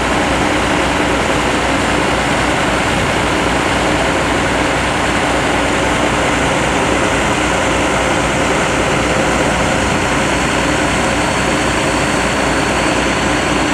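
An engine running at a steady speed, a loud even drone with no breaks.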